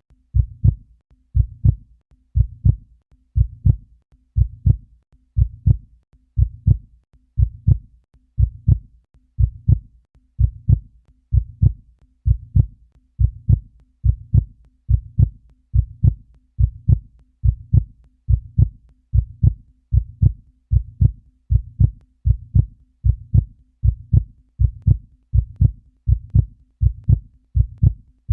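Heartbeat sound effect: a low, steady lub-dub thump about once a second.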